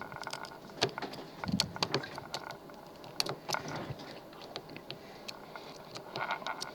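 Light, irregular metallic clicks and scratches of a pick poking at pins in a lock whose pins sit in a circle, with tension held on the lock.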